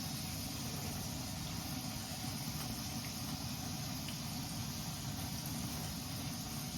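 A piece of beer-battered trout deep-frying in hot oil: a steady sizzling hiss with a few faint pops.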